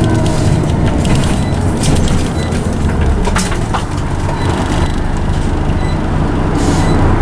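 Scania OmniCity single-deck bus heard from inside the saloon while under way: a steady low drone from the engine and the loud ZF automatic gearbox, with frequent rattles and creaks from the body and fittings.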